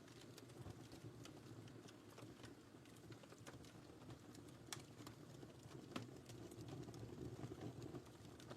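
Wood fire burning in a fireplace: a faint, steady low rumble of flames with scattered crackles and pops, two of them louder about halfway through and a second later.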